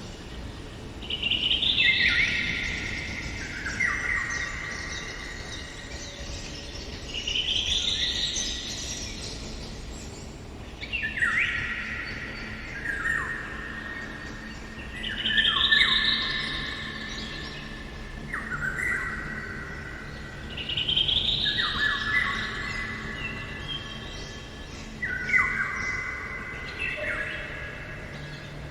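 Eurasian golden oriole singing: about eight fluty whistled phrases a few seconds apart, each a quick rising note followed by stepped, falling whistles.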